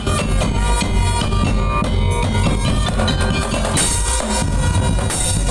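Madurese daul music played loud: a heavy bass drum and other drums beating under a held melodic line, with two bright crashes in the second half.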